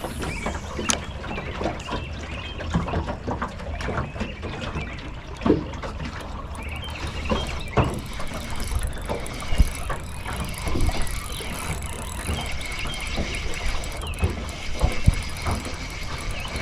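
Fishing reel being cranked on a retrieve, giving a high whine with a rapid fine ticking that starts about seven seconds in: the reel is running noisily. Scattered knocks sound throughout.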